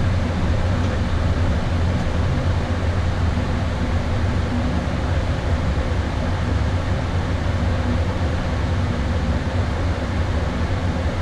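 Steady flight-deck noise of an Airbus A320 in flight: airflow and cabin air conditioning make an even rumble, with a faint steady hum over it.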